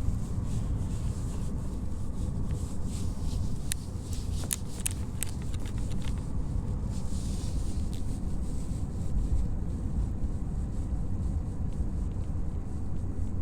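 Steady low rumble of road and engine noise inside a moving car's cabin, with a few sharp clicks about four to five seconds in.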